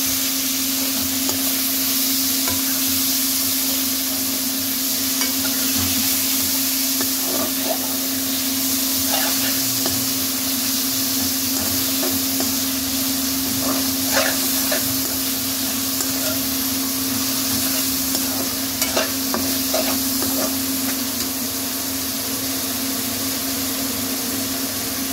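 Diced chicken sizzling as it fries in a metal pan, stirred with a slotted metal spoon that scrapes and clicks against the pan now and then, mostly in the middle stretch. A steady low hum runs underneath.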